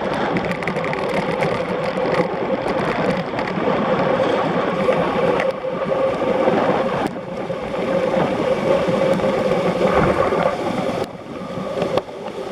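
Steady rushing wind and traffic noise from riding at speed on the road, with a constant hum through it. The noise drops noticeably quieter about eleven seconds in.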